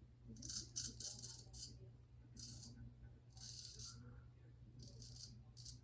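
Vintage Louis Ernst & Sons straight razor scraping through lathered stubble in several short, faint strokes.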